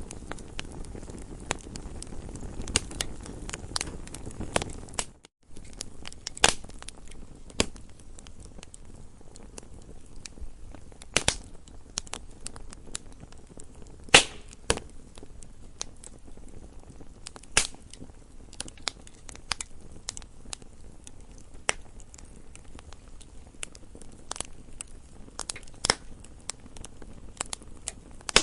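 Campfire crackling: irregular sharp pops and snaps of burning wood over a soft low hiss. The sound drops out briefly about five seconds in.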